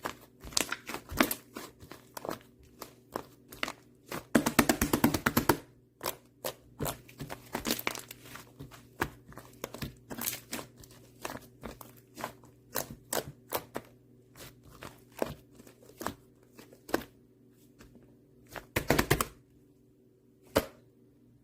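Whipped-cream slime being played with by hand, making irregular sticky clicks, pops and crackles. There are denser runs of crackling about four seconds in and again near the end.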